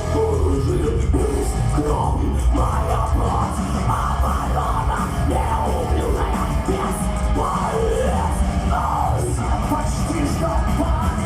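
Power-metal band playing live: loud electric guitars, bass and drums under a lead vocalist singing in a strained, shouting voice.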